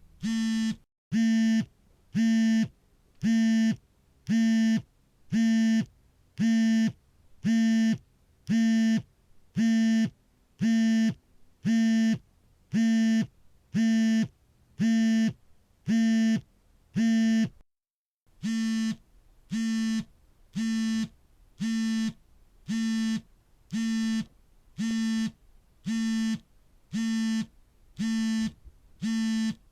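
Smartphone vibrating for an incoming call: its vibration motor buzzes in half-second pulses about once a second, with a short break near the middle where the buzzing stops and starts again.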